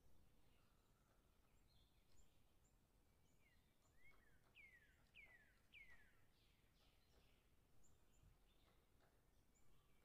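Faint birdsong: scattered short chirps with a run of quick downslurred whistles, about three in a row, near the middle.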